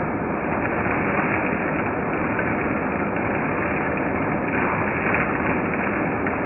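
1993 Hoover Turbopower 2 U2464 upright vacuum cleaner running steadily, its motor and suction noise constant, slightly louder about five seconds in.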